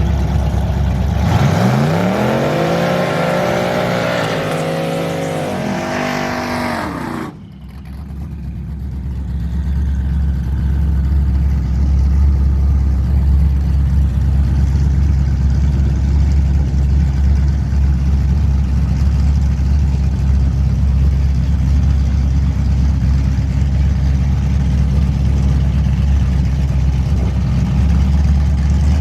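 Engine accelerating hard, its pitch climbing and falling back several times as it shifts through gears. About seven seconds in it cuts off abruptly, and a steady low engine drone follows.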